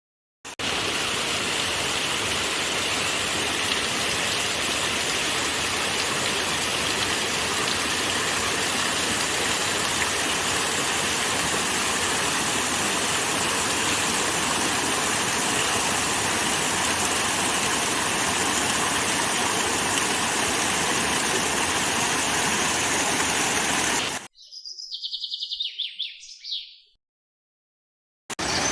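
Steady rushing of flowing water, a stream or small waterfall, that cuts off abruptly near the end. In the gap a single bird gives one short high call of rapid notes. The water sound starts again abruptly just before the end.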